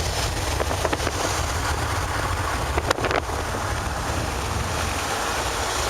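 Wind rushing in through an open car window and buffeting the microphone over a steady low road rumble from the moving car, with a few short knocks about three seconds in.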